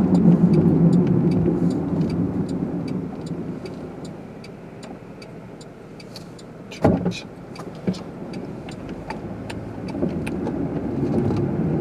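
Car engine and tyre noise heard from inside the cabin while driving through deep snow: a steady low hum that eases off midway and builds again near the end, with a fast light ticking throughout and a couple of short knocks about seven seconds in.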